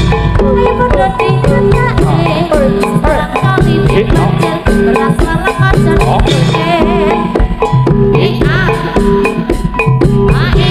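Jaranan music played loud through a sound system: a Javanese gamelan ensemble with drums and metallophones keeping a steady rhythm under a wavering sung melody.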